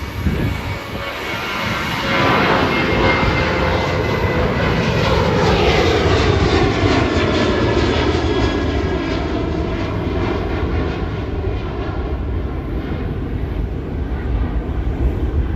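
Boeing 737-700's CFM56-7B turbofan engines at takeoff power as the departing jet goes past. The loud rush builds about two seconds in, and the engine whine falls in pitch as the jet passes, over a heavy low rumble.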